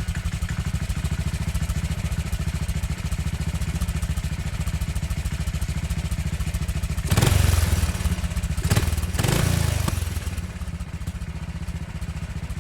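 An engine idling with a steady rapid low pulse, revved up briefly about seven seconds in and again about nine seconds in.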